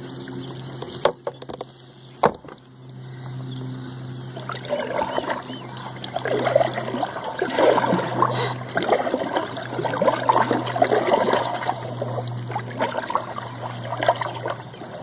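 Boat on the water: a steady low motor hum with water splashing and trickling, growing louder about four seconds in. Two sharp knocks come about one and two seconds in.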